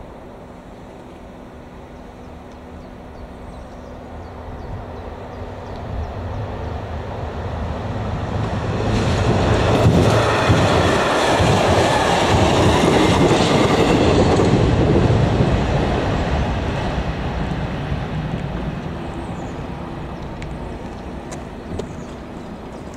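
Three-car Czech diesel railcar train (ČD class 854 railcar, a 954 trailer and a class 843 railcar) passing by. Engine and wheel noise grow over several seconds, are loudest about ten to fifteen seconds in, then fade away.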